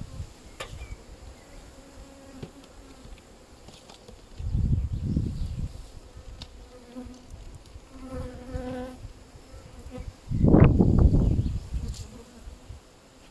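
Honeybees buzzing around an open hive, with one bee buzzing close by about eight seconds in. Two low rumbles break in, one about four and a half seconds in and a louder one near ten and a half seconds.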